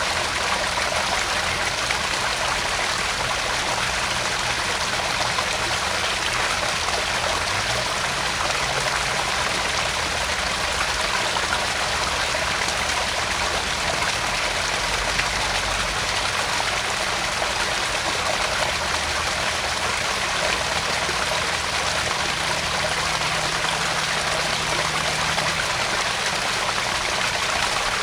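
Small garden pond waterfall: water spilling and splashing into the pond in a steady, even rush.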